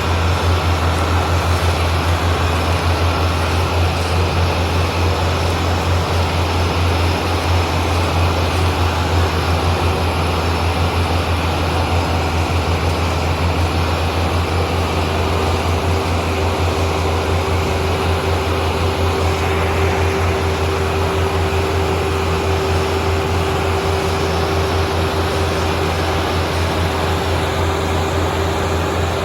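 Tractor diesel engine running steadily under load, pulling a loaded trolley, with a deep continuous drone and a steady higher whine coming in about halfway through.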